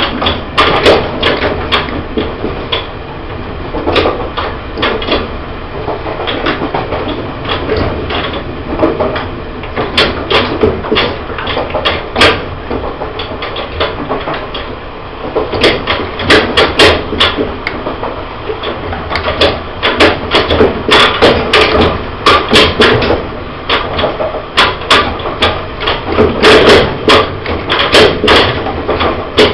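Interior running sound of a Taiwan Railways E1000 push-pull electric express train: a steady low rumble with frequent irregular clicks and knocks from the running gear and car body, coming thicker in the second half.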